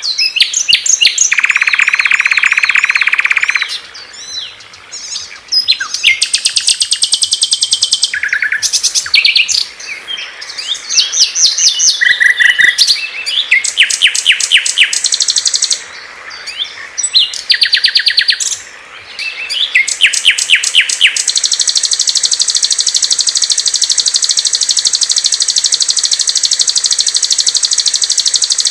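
Small songbirds singing one after another: quick chirps, whistled phrases and rattling trills. About two-thirds of the way in, a long, steady, high trill takes over.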